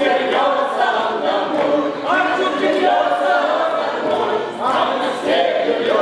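Cossack folk song ensemble singing in chorus, with new sung phrases starting about two seconds and about four and a half seconds in.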